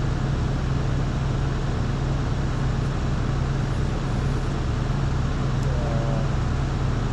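A large engine running steadily at idle: a constant low drone that does not change.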